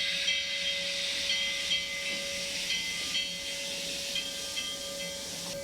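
Steam hissing steadily in the cab of the No. 40 steam locomotive, with a faint steady tone under it.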